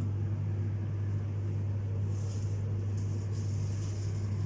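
Steady low electrical hum with a deep, even tone, typical of the refrigerated display cases in a supermarket's chilled and frozen aisles.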